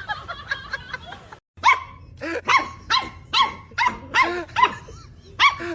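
A dog barking over and over, about two short barks a second. The barking starts after a brief silence about a second and a half in.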